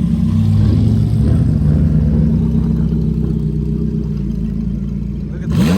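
Car engine running at a low, steady exhaust note, then a sharp throttle blip near the end.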